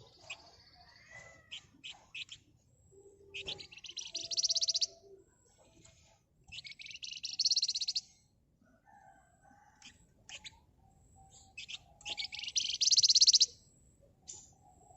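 Flamboyan (wergan Jawa) songbird singing: three loud, fast, dense rattling trills, each lasting about a second and a half, with softer short chirps and lower whistled notes between them.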